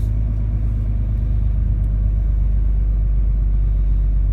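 Heavy truck's diesel engine and road noise heard from inside the cab as a steady low drone while driving.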